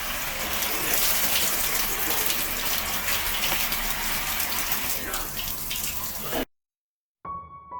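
Tap water running and splashing steadily as a pet parrot bathes in it. It cuts off abruptly near the end, and soft piano music begins just after.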